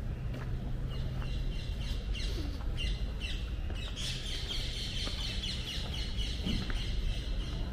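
Small birds chirping repeatedly, a run of rapid chirps about halfway through, over a steady low rumble.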